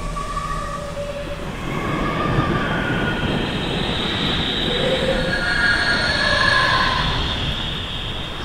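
Dramatic sound effect: a steady rushing noise with shifting high squealing tones over it, a little louder from about two seconds in.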